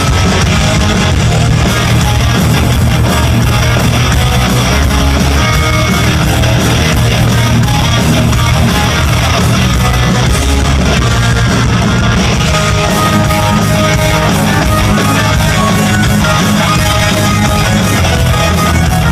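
Live rock band playing loud, distorted electric guitars over bass and drums.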